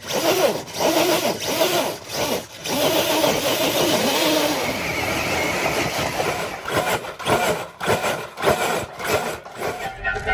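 Electric motors of RC scale trucks whining, the pitch repeatedly rising and falling with the throttle, in short stretches broken by brief gaps.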